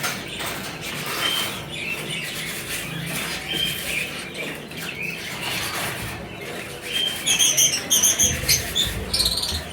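Small aviary birds chattering steadily, with a run of loud, rapid high chirps near the end.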